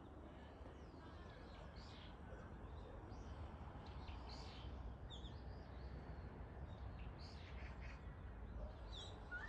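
Faint, intermittent chirps of small birds every second or two, over a steady low rumble of wind or microphone noise.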